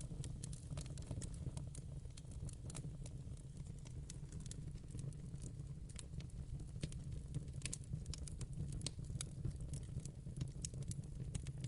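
Fire in a fireplace crackling, with many irregular sharp pops and snaps over a steady low rumble.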